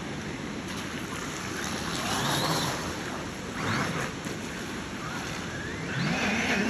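Radio-controlled car running through floodwater, a steady splashing rush of water and motor noise, with a pitched sound that swoops up and down near the end.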